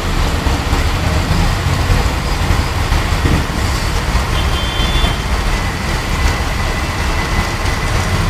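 Steady dense roar of a hailstorm, with a heavy low rumble underneath. Faint thin whistling tones come in from about four seconds in.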